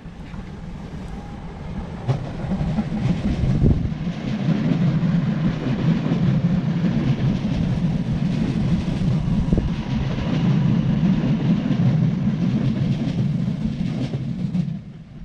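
Multiple-unit passenger train running past below: a rumble of wheels on track that builds about two seconds in, holds steady, then drops away near the end.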